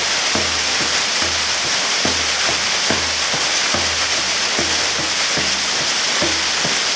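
Waterfall pouring: a steady, dense rush of falling water. Under it, a low throb repeats a little faster than once a second.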